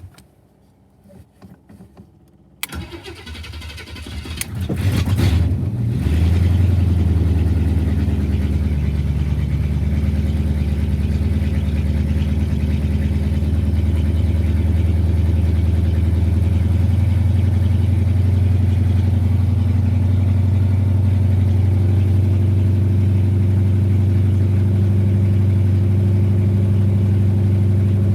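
Rebuilt Chevy small-block V8 with Vortec heads and ram's horn exhaust manifolds being cranked by the starter for about three seconds, catching, and settling into a steady, loud idle.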